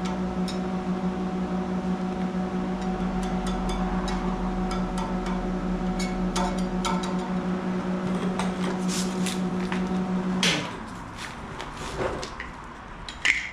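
Welding machine humming steadily while the electrode is scratched and tapped on the steel, giving scattered clicks but no steady arc: the ground clamp has been left off, so it won't weld. The hum cuts off about ten and a half seconds in with a sharp clack, followed by a few knocks.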